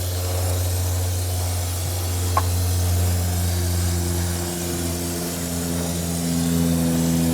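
Aerosol brake or carb cleaner spraying in a steady hiss through its extension tube, rinsing aluminum shavings off the engine's cam area. Under it runs a steady mechanical hum that shifts to a higher pitch about halfway through, with a single short click a little before.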